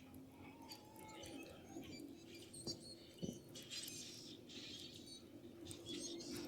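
Faint birds chirping from time to time, under a faint steady low hum, with two light knocks a little under three seconds in and about half a second later.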